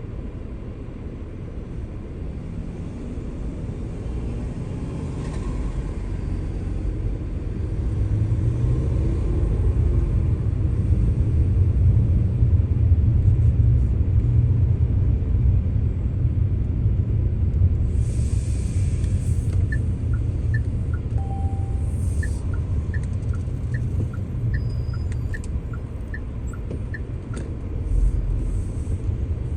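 A car driving, with a steady low road and engine rumble that grows louder through the middle. Over the second half comes a run of light, evenly spaced ticks, alternating between two pitches.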